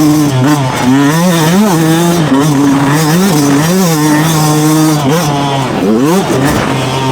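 Two-stroke motocross bike engine revving on and off the throttle, its pitch rising and falling over and over, with a sharp climb about six seconds in.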